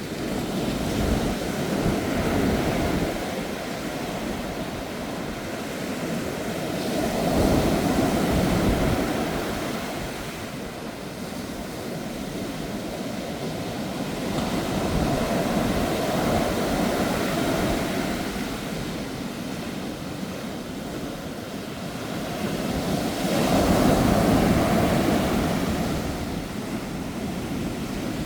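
Sea waves breaking on the shore in typhoon-strength wind. The surf swells loud and falls back about every seven or eight seconds, with wind rumbling on the microphone.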